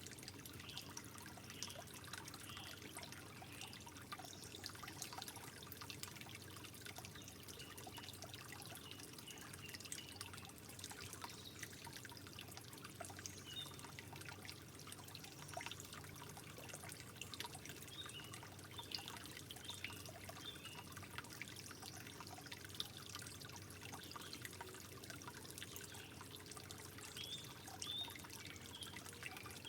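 Gentle trickling water with many small drips and plinks, steady throughout.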